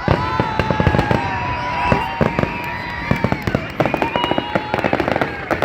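Fireworks bursting overhead: bangs in the first half, then rapid strings of crackling pops from about two-thirds of the way in.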